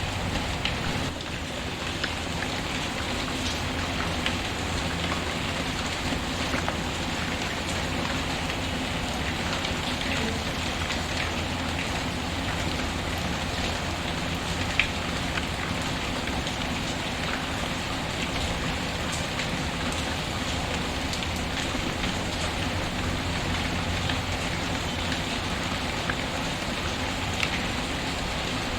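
Steady rain with scattered sharp pops of a crackling wood fire, one louder pop about halfway through.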